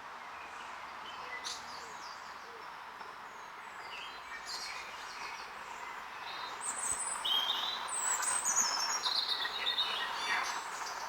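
Small birds chirping and singing over a steady background hiss of outdoor noise. The calls grow busier and louder in the second half.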